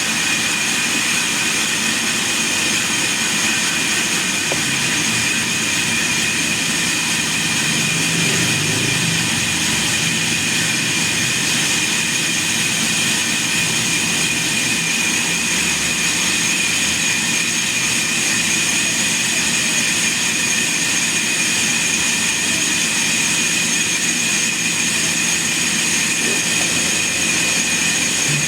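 Sawmill machinery running steadily, with a constant high-pitched whine over a dense mechanical noise.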